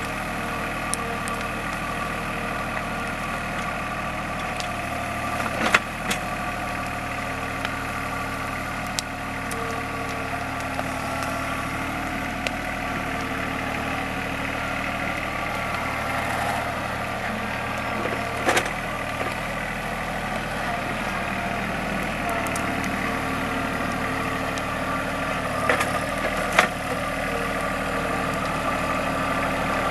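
TYM compact tractor's diesel engine running steadily, with a few sharp knocks or cracks about six seconds in, near the middle, and again near the end.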